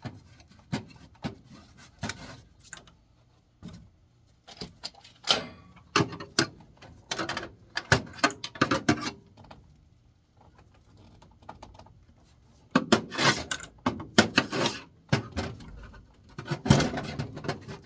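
Small metal parts and tools being handled in a furnace's blower compartment: irregular clicks, taps and rattles, with busier clatter about thirteen seconds in and again near the end.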